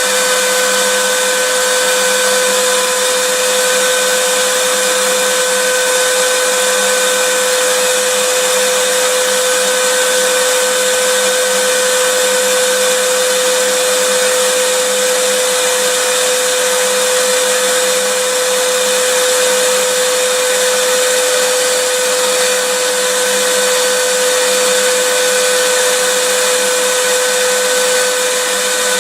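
Vacuum cleaner running steadily: an even rushing hiss with a constant motor whine, unchanging throughout.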